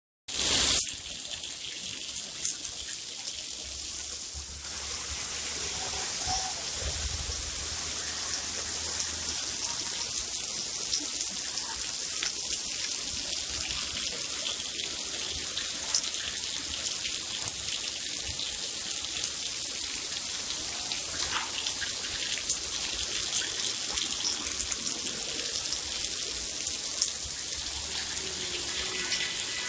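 Steady rain falling: an even hiss with scattered sharp ticks of drops. A brief loud burst comes about half a second in, and the rain grows slightly louder about five seconds in.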